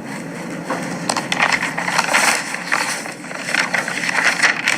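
Irregular crackling and rustling, made of many quick clicks and scrapes that come in clusters.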